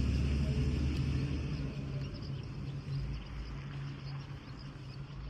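A motor vehicle running with a low steady rumble and hum that slowly fades, with insects chirping faintly in the background.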